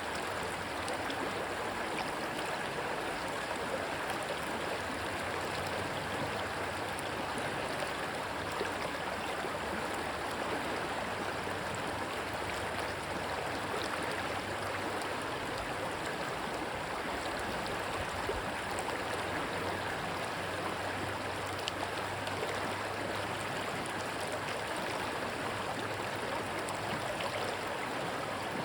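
Rushing water of a stream, a steady even rush with no let-up.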